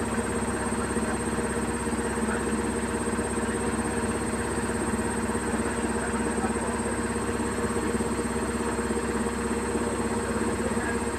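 Beko WKY71233LSYB2 washing machine in its spin cycle: the drum and motor turning at a steady speed with an even hum.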